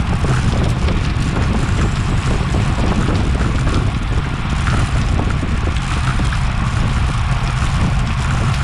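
Steady wind rushing over a bike-mounted action camera's microphone as a road bicycle rides at race speed, a constant deep rumble with a hiss above it.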